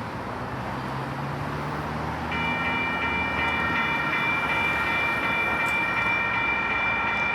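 Union Pacific diesel train rumbling steadily. About two seconds in, a steady chord of high tones joins and holds.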